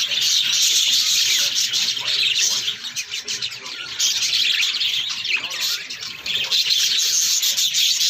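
Several parakeets chattering and chirping without pause, a dense mass of high calls that thins briefly about three seconds in and again near six seconds.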